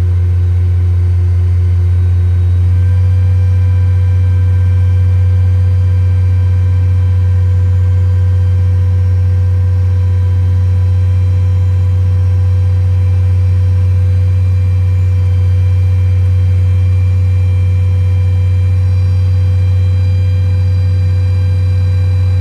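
Heavy diesel engine running at a steady speed: a loud, even, low drone with faint steady whines above it, its tone shifting slightly about three seconds in.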